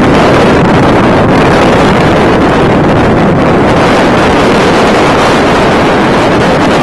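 Strong wind blowing straight across the microphone: a loud, unbroken rush of wind noise.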